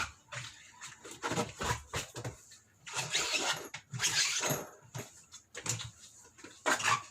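Irregular scrubbing and rubbing strokes on a washing machine pulsator being cleaned, with short knocks in between.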